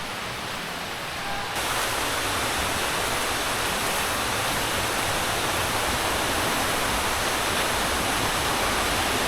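Steady rush of a rainforest river running over rocks and small cascades. It gets louder and brighter about a second and a half in, then holds steady.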